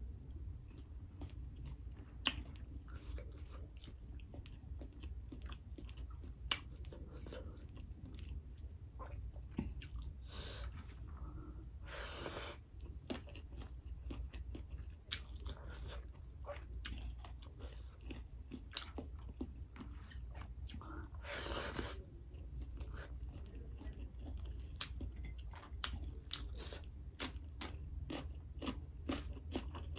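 A person chewing a mouthful of meat and chicken liver with rice close to the microphone, with many small wet mouth clicks and smacks. A few brief louder rushes of noise come about 10, 12 and 21 seconds in.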